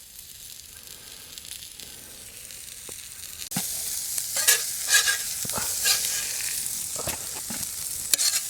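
Hamburger steaks and onions sizzling in a pan over a campfire. The sizzle gets louder about three and a half seconds in, and then a spatula scrapes and clinks against the pan several times as the food is lifted out.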